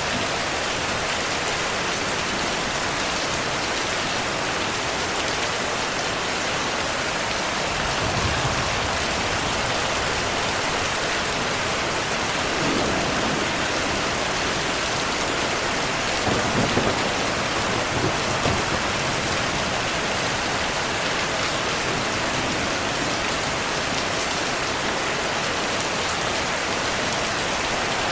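Steady heavy rain falling, with a few low rumbles of distant thunder rolling under it, the strongest about two-thirds of the way through.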